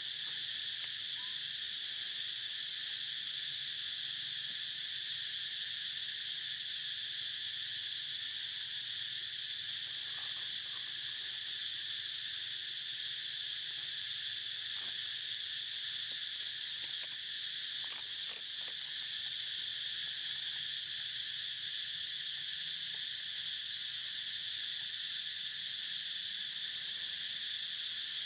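A steady, high-pitched chorus of insects that does not let up.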